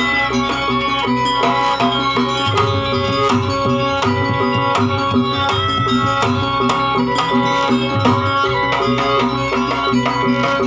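Live Javanese jaranan ensemble music: hand drums, the kendang, beat a busy rhythm over the ringing pitched tones of gamelan gongs and metallophones.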